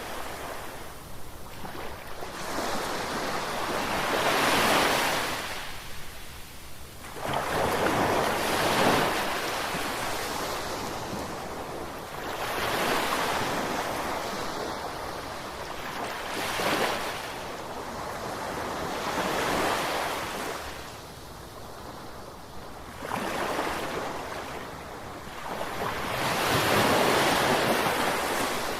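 Ocean waves breaking and washing on the shore, the surf swelling and falling back in a new surge every three to four seconds.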